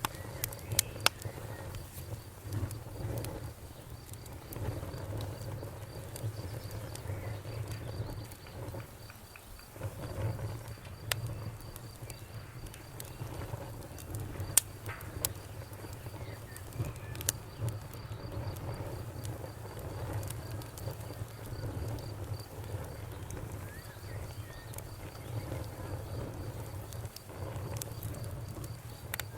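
Wood fire burning in a fireplace: a steady low rumble with scattered sharp crackles and pops, a few louder snaps near the start and again about halfway through.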